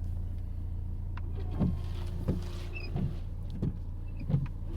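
Car windscreen washers and wipers running: a steady low motor hum, and from about a second and a half in a regular thud roughly every two-thirds of a second as the wiper blades sweep and reverse on the wet screen.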